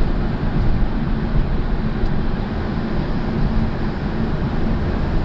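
Steady road and engine noise of a car driving, heard from inside the cabin: an even, unbroken sound strongest in the low end.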